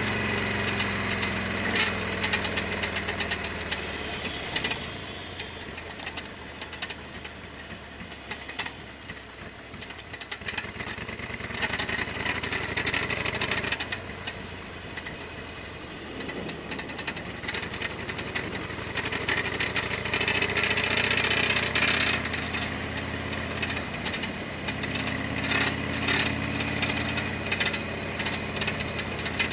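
Harley-Davidson Sportster XL1200R's air-cooled V-twin engine running, its note falling and rising with the revs. A busy mechanical clatter of ticks rides over it and is strongest about twenty seconds in. This is the kind of knocking the owner is chasing and suspects is something striking.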